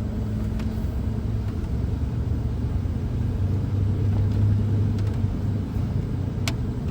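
Car moving, heard from inside the cabin: a steady low engine and road rumble, with a light click near the end.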